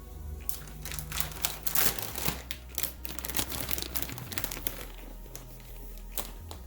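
Irregular crinkling and rustling handling noise, dense for about four seconds and then two more sharp clicks near the end, over background music.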